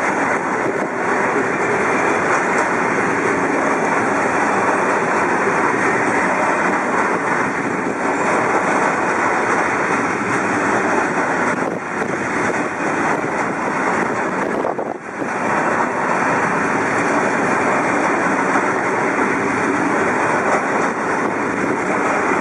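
Freight train wagons rolling past close by: a steady rolling noise of wheels on rails that holds at one level throughout, with a short dip about fifteen seconds in.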